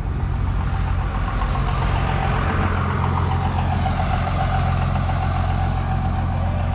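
A vehicle engine idling steadily, a low even hum with a faint higher whine running over it.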